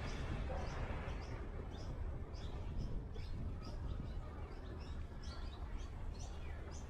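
Songbird chirping: a steady series of short, high, slightly falling notes, about two to three a second, over a low steady rumble.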